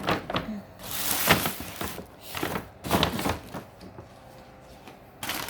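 Kitchen handling noise: several rustling, crinkling bursts, the longest about a second in and another about three seconds in, as vegetables are handled.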